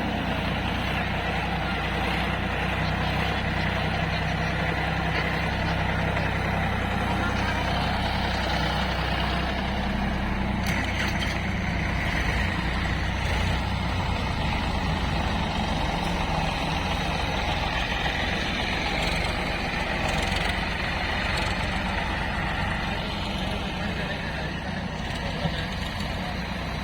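Diesel engine of a heavy farm or construction machine running steadily at a low, even speed.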